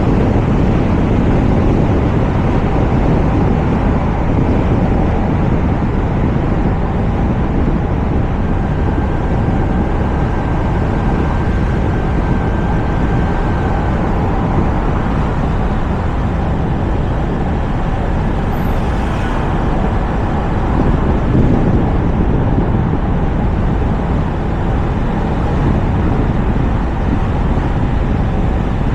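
Steady road noise and wind rushing over a roof-mounted camera's microphone as a Toyota RAV4 drives along, with tyre rumble underneath. A faint thin whine sits on top for several seconds in the first half.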